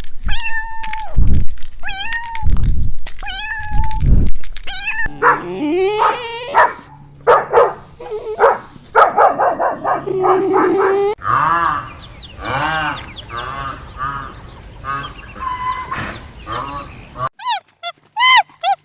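A string of animal calls from several short clips: repeated cat meows about once a second over deep thumps, then busier overlapping calls and yelps, and short arching calls near the end.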